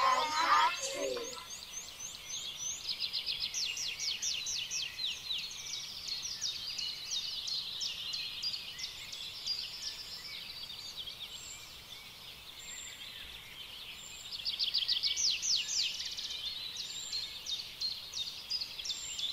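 Songbirds chirping and trilling in repeated rapid runs of high, quick downward notes, with children's singing ending about a second in.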